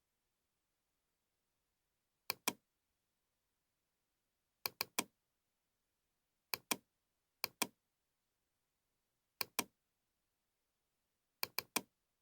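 Computer mouse clicking in short groups of two or three sharp clicks, every second or two, with dead silence between.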